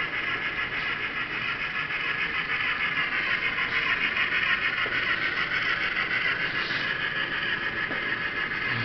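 N scale model steam locomotive running along the layout's track: a steady high whir of its small motor and metal wheels on the rails.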